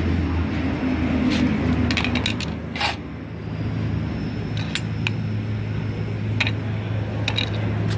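Electric grinder running steadily as it grinds the steel of a motorcycle brake disc into a knife blank. Scattered sharp metallic clicks and ticks come through, several of them close together about two seconds in.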